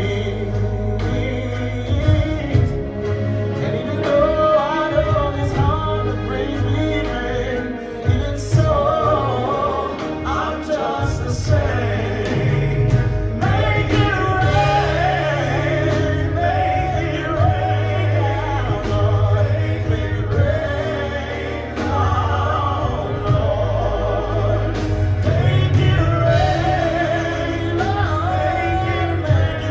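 Male vocal group singing a slow, gospel-tinged ballad live, voices in harmony over an instrumental accompaniment with a steady bass and beat.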